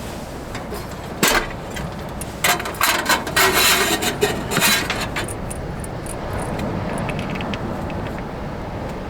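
A sharp click about a second in, then a run of rattling clatter and clicks from hard objects being handled, over a steady low rumble.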